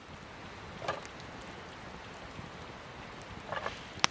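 Wood campfire crackling over a steady hiss, with scattered small ticks and one sharp pop near the end.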